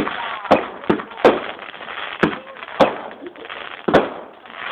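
Fireworks going off: about seven sharp bangs and cracks at irregular intervals over a steady background hiss.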